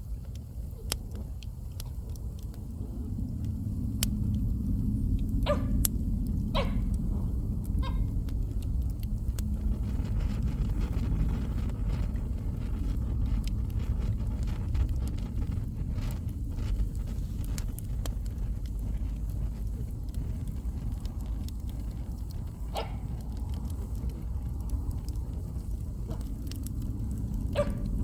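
Bonfire burning: a steady low rumble with scattered crackles and pops, and a dog giving a few short yelps.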